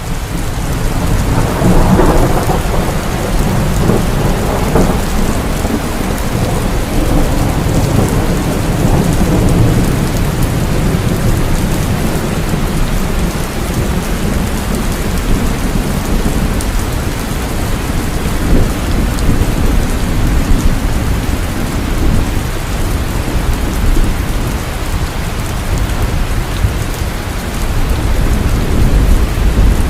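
Heavy rain falling steadily with deep rolling thunder, swelling about two seconds in and again near the end.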